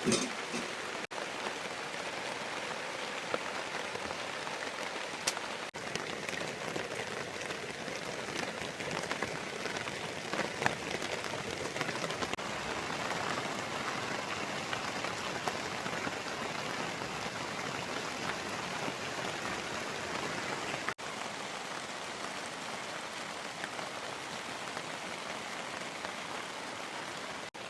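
Heavy rain falling steadily, an even hiss with scattered sharper drop ticks, broken by a few split-second gaps.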